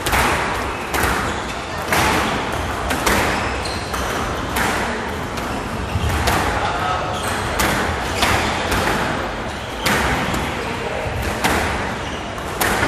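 A squash rally: the ball is struck by rackets and bounces off the court walls, giving a run of sharp cracks about once a second with a short echo of the court and hall.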